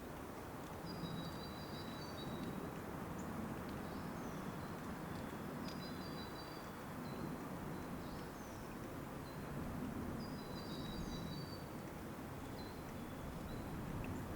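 Small birds singing over a steady outdoor background hiss: short high chirped phrases that come back about every four to five seconds, with a few quick down-slurred notes between them.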